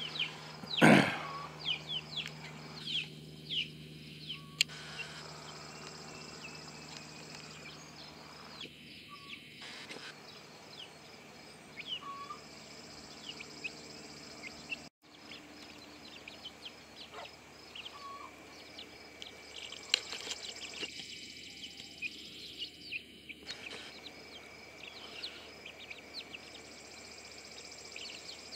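Birds chirping in many short, quick, high falling notes over steady outdoor background noise, with one loud thump about a second in.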